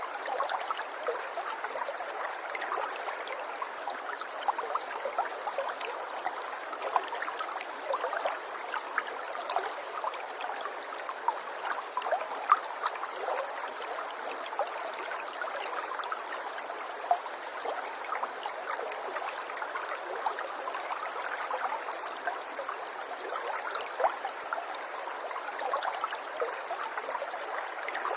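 Water running and trickling steadily, with many small splashes and drips over a continuous babble, like a small stream or cascade.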